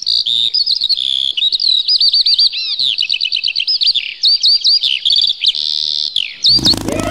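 Songbirds chirping and trilling, a fast run of high calls one after another. Near the end the birdsong stops and a lower, steadier sound takes over.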